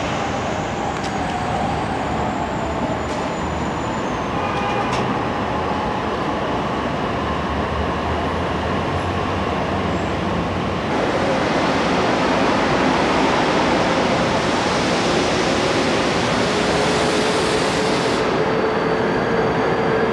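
A train running, with a steady rumble and a few steady motor tones. About eleven seconds in, the noise jumps louder and a tone slowly rises in pitch as it gathers speed.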